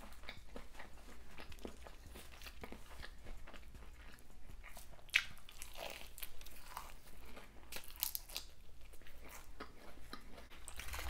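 Close-up chewing of fried food with a crunchy hot Cheetos crust: irregular crackling crunches as it is bitten and chewed, with one sharper crunch about halfway through.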